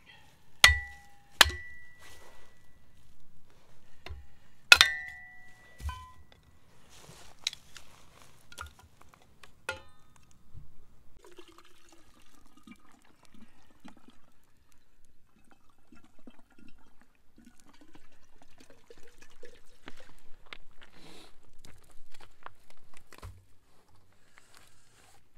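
Three sharp metal clinks that ring briefly, then water poured from a plastic bottle into a metal kettle, with a few lighter clinks and knocks.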